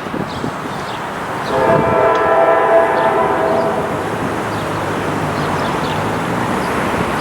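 Diesel freight locomotive's air horn blowing one long blast, starting about a second and a half in and lasting about two and a half seconds, over a steady noisy rumble. This is the crossing warning of the lead unit, a CSX C40-8, approaching a grade crossing.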